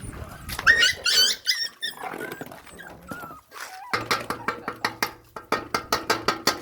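Puppies whining and yipping in high, bending cries. About four seconds in, a rapid, even run of sharp clicks begins, about five a second, over a low steady hum.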